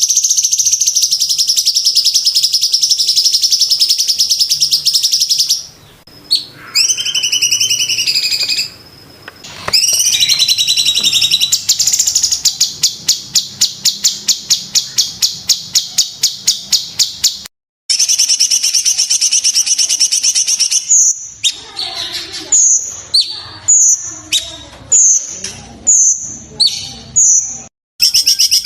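Cucak cungkok singing: long, fast high-pitched rattling trills broken by a few short gaps, then a run of short sharp calls about one a second near the end.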